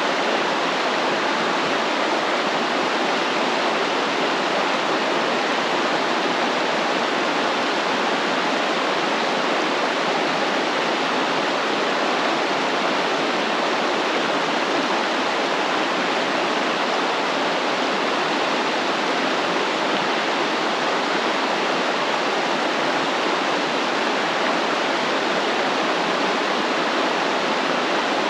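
Stream water flowing steadily, a continuous even rush of water.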